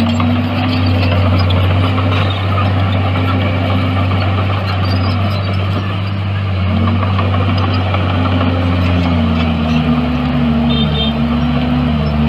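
Heavy earthmoving machinery's diesel engine running steadily, its pitch wavering slightly up and down.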